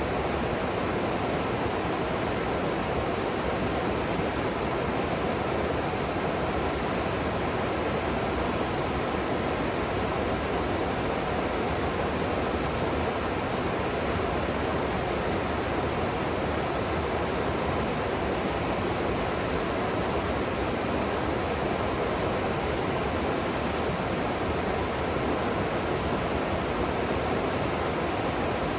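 Swan River water flowing and rushing in a steady, even wash of noise.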